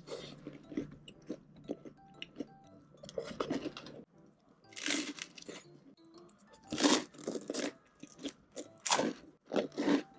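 Crunching bites and chewing of toasted bread, in irregular crackly bursts with the loudest clusters about 3, 5, 7 and 9 seconds in.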